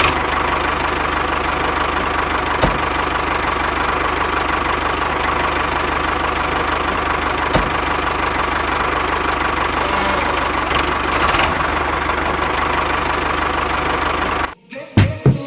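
A small motor running steadily with a fast, even rattle, with a couple of sharp clicks; it cuts off near the end.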